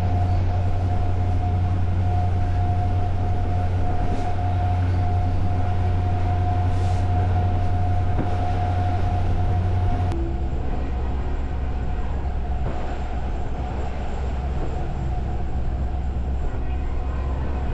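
Moving diesel freight train heard from on board: a steady low drone with rail and wheel noise and a steady whine over it. About ten seconds in the sound changes abruptly, the whine dropping out and the drone settling a little lower.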